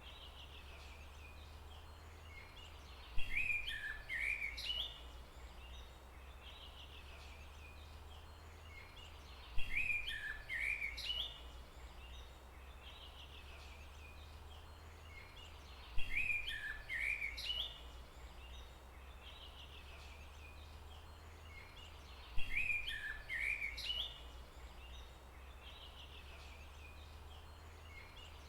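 A songbird singing a short phrase of quick chirping notes, repeated four times about every six and a half seconds, over a steady low background hum.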